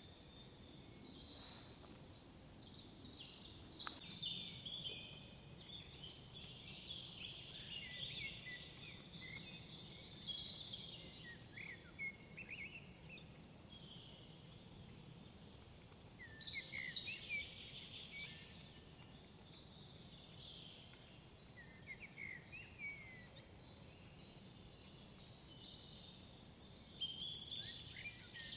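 Several songbirds singing, with phrases of quick, high, gliding notes and short trills that come in bursts every few seconds and overlap at times, over a faint steady background hush.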